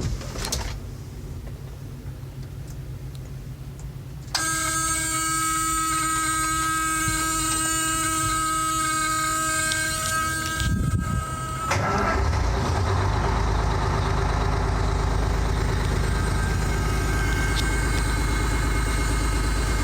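Detroit Diesel 4-53 two-stroke four-cylinder diesel in a 1976 International dump truck being started. A steady buzzing tone sounds about four seconds in and runs for several seconds. The engine is cranked, catches about twelve seconds in, and settles into a steady idle.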